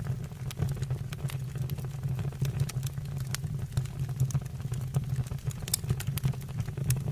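Wood fire burning in a fireplace or stove, with irregular crackles and pops over a steady low rumble.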